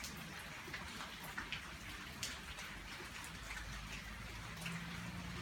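Rain falling steadily, with individual drops tapping irregularly on a surface.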